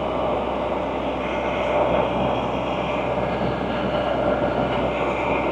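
Can-Am Spyder three-wheeled motorcycle's engine running steadily at cruising speed, mixed with wind and road noise.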